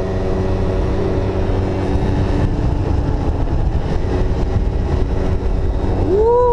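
Yamaha Zuma 50cc scooter engine running steadily under way, with wind and road rumble on a helmet camera; about six seconds in the pitch swings up and back down.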